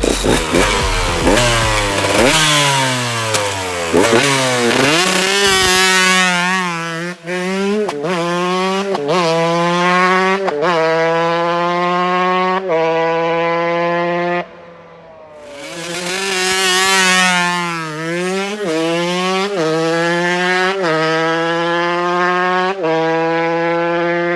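KTM EXC 125 two-stroke engine with an FMF Shorty silencer running at high revs, its note held steady with brief dips every second or two, and a quieter spell about fifteen seconds in.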